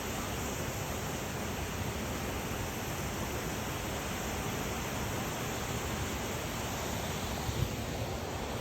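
Steady rushing noise with no pitch or rhythm, of the kind made by running water or wind across the microphone, with one brief small knock near the end.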